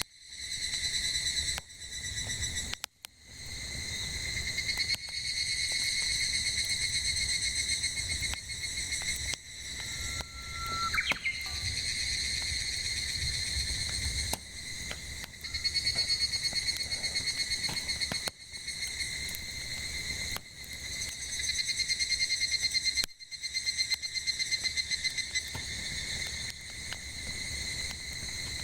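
Cicadas singing in a steady, finely pulsing chorus, with a short whistle-like note about a third of the way in.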